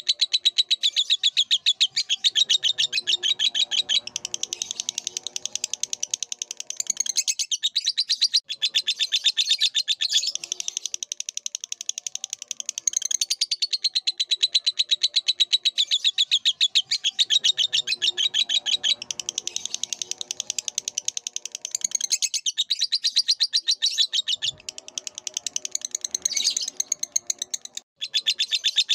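Lovebird singing a long, rapid chattering trill of high chirps, in extended runs broken by a few short pauses.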